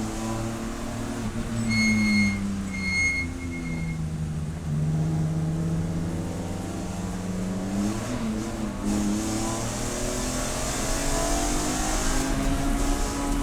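Race car engine heard onboard: the engine note drops as the car slows, then climbs steadily as it accelerates. Two short, high electronic beeps sound about two seconds in.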